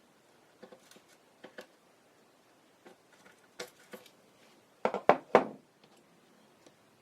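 Light clicks and taps of small plastic model parts and tools being handled on a work surface, with a quick run of louder knocks about five seconds in.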